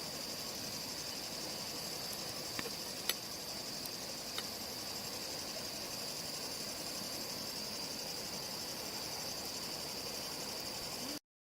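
Night insects chirring in a steady high-pitched drone, with a few faint clicks a few seconds in; the sound cuts off abruptly near the end.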